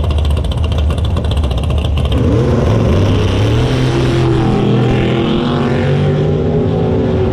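Drag race car engine running at a low rumble, then about two seconds in revving up, its pitch climbing and then holding higher.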